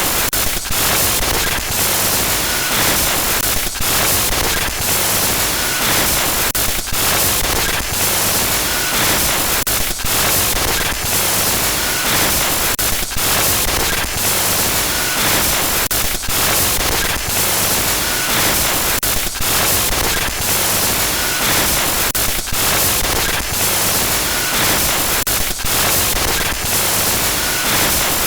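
Loud, harsh glitch noise: dense static hiss across the whole range, broken by brief dropouts and crackles every second or so, with a faint short beep now and then.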